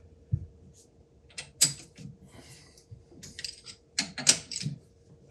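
Scattered light metallic clicks and clinks of a chuck key and hand tools working a lathe's cam lock chuck, with a faint steady hum underneath.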